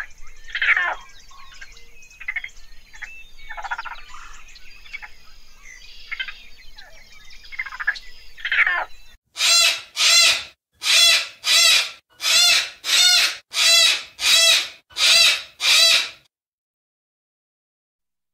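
Softer, varied chirps and sweeping calls, then a cockatoo screeching about a dozen times, roughly one and a half screeches a second, from about nine seconds in. The screeches stop suddenly a couple of seconds before the end.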